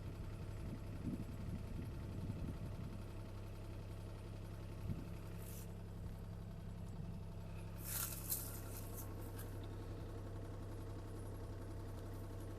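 CAT 303C CR mini excavator's diesel engine idling steadily, with a few faint clicks and scrapes from work on the machine while it is greased.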